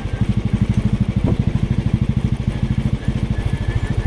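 Motorcycle engine running at steady low revs, its exhaust pulses coming as an even, rapid beat.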